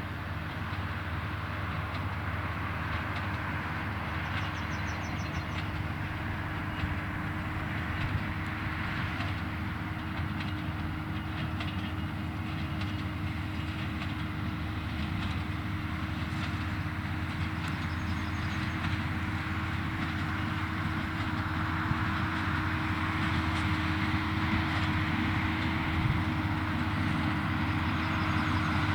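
Valtra tractor pulling a Claas Quadrant 2200 square baler at work: a steady engine-and-machinery drone with a constant hum, getting gradually louder over the stretch.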